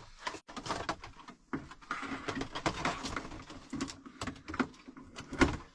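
Handling noise: irregular rustling, light clicks and knocks as the range hood's duct pipe is fitted by hand, with the loudest knock near the end.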